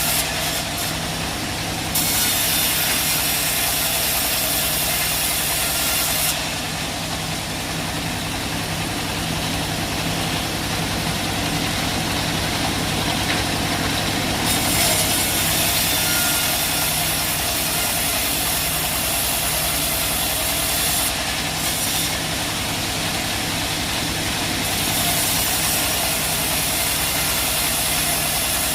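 Band sawmill running: a steady engine drone with a loud high hiss that starts and stops several times, coming in about two seconds in, dropping away around six seconds, and returning at about fifteen and twenty-five seconds.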